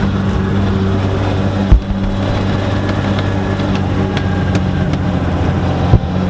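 BMW E30 rally car engine heard from inside the car, running at steady revs with an unchanging note. Two sharp thumps, the loudest sounds here, come about two seconds in and again near the end.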